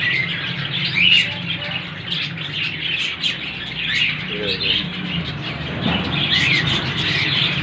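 Many small cage birds chirping at once, a dense, continuous overlapping chatter of short high chirps.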